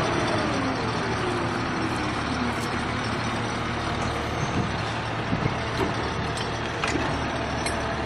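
Heavy vehicle engine running under a steady rumble, its pitch falling over the first couple of seconds as the revs drop.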